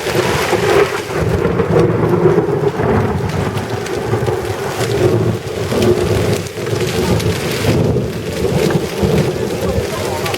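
Heavy rain and hail pelting down in a loud, dense, steady patter with a low rumble underneath.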